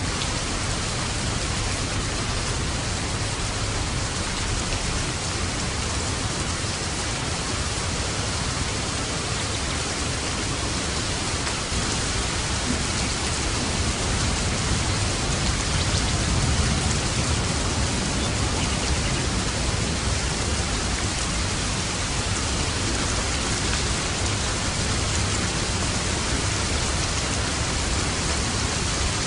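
Steady rain falling as a dense, even hiss, with a low rumble of thunder that swells slightly a little past the middle.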